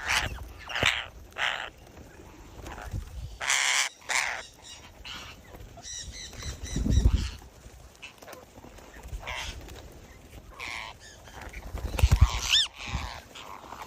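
Birds calling: many short squawks and chirps of several different kinds, some overlapping. Two low rumbles come in, about halfway through and near the end.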